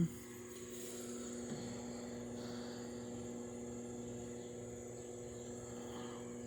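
Microwave oven running with a steady electrical hum; the hum drops away near the end. The microwave runs but hardly heats anything.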